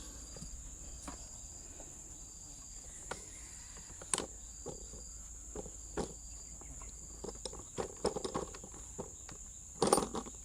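Scattered light clicks and knocks of the aluminium pipe being worked into the Makita palm cutter's motor housing, with a louder cluster of knocks near the end, over a steady high-pitched insect chirring.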